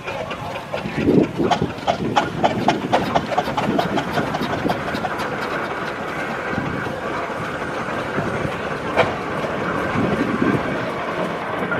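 Steam traction engine on the move, its exhaust chuffing in a quick regular beat, about three a second, for the first few seconds, then a steadier rumble and hiss. A single sharp click comes about nine seconds in.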